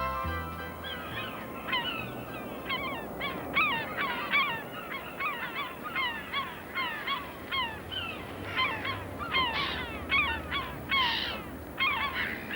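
A flock of gulls calling: many short, falling squawks overlapping one another, over a steady background rush.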